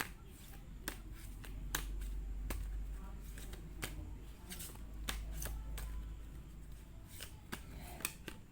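A deck of tarot cards being shuffled by hand, with irregular sharp card snaps and clicks throughout over a low rumble.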